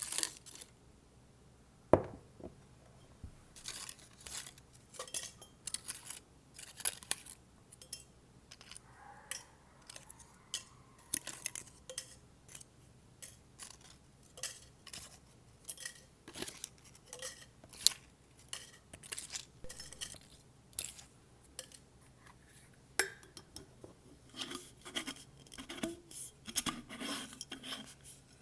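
Fingers tapping and handling a bottle and strips of paper: a continuous run of light, irregular taps and clinks, several a second, with a short ringing tone now and then.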